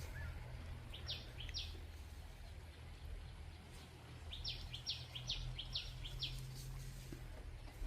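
A bird calling in short, high chirps: a few about a second in, then a quick run of about seven a few seconds later, over a steady low rumble.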